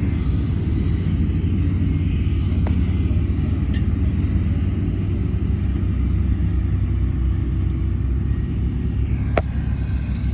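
Heavy diesel engine of earthmoving machinery running steadily, its sound sitting low and deep. A few light clicks of metal come through, with one sharp knock about nine seconds in.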